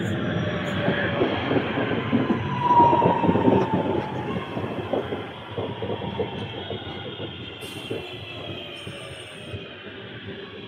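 Northern Class 323 electric multiple unit running past along the platform: wheels rumbling over the rail joints with a falling electric whine. It is loudest two to four seconds in, then fades as the train draws away.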